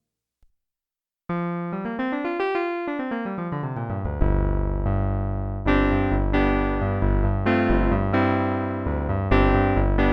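Roland JX-8P analog synthesizer playing one of its factory keyboard patches. After about a second of silence, a quick run of single notes climbs and falls back down, then bass notes and chords are struck in a steady rhythm.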